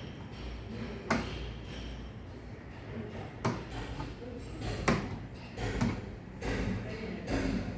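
Irregular knocks and clicks of hands and tools working on a refrigerator's parts, a handful of sharp taps over a low steady hum.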